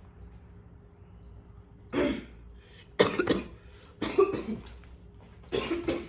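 A woman coughing: four short coughs spaced about a second apart, the first about two seconds in.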